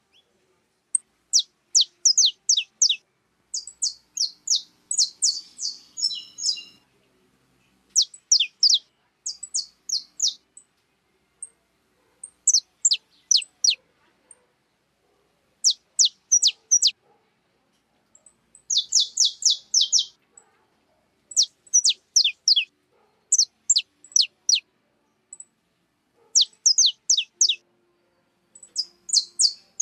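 Small songbirds calling in quick runs of three to eight high, sharp, downward-sliding chirps, with short pauses between the runs.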